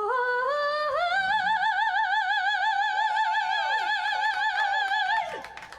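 A singer's voice climbing in two steps to a very high, opera-style note and holding it with wide vibrato for about four seconds, then letting it go near the end.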